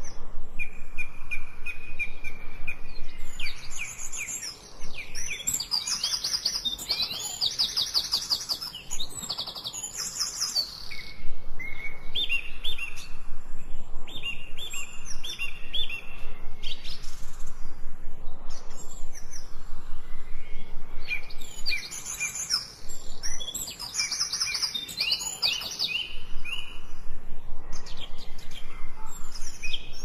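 Small birds chirping and singing: a steady run of quick chirps, series of short whistled notes and fast high trills, with two denser bursts of song, about a fifth of the way in and again about three-quarters of the way through.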